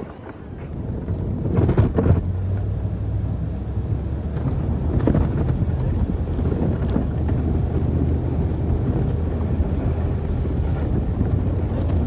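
Chevy pickup truck engine working under load as the plow pushes snow, with a steady low drone and rushing rumble. It grows louder over the first two seconds, with a couple of knocks about two seconds in.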